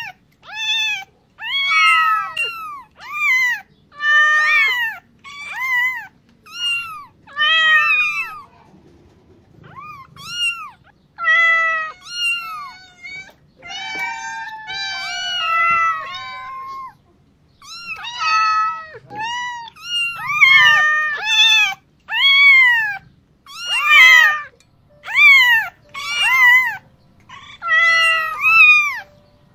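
Several ginger kittens meowing over and over, loud high calls that rise and fall, coming about one a second with a short pause about nine seconds in.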